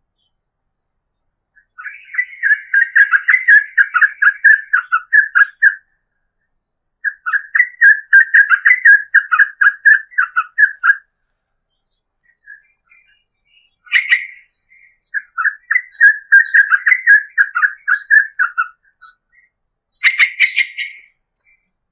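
Sooty-headed bulbul singing long runs of rapid repeated notes, three runs of about four seconds each, with short sharper calls in the gaps between them.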